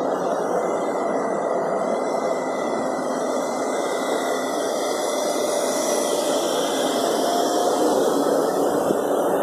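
High Speed Train (InterCity 125) pulling out of the station: coaches rolling past on the rails with a steady running noise and a faint steady tone, and a hiss that swells and fades partway through as the diesel train gathers speed.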